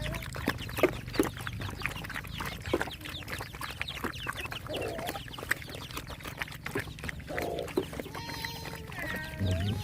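Chickens clucking, with a few short calls over a dense patter of small clicks.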